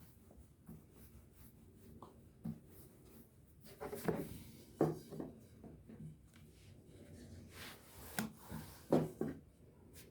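Kitchen handling sounds: scattered light knocks, taps and rubbing of utensils and dishes. They are busiest about four seconds in and again near the end.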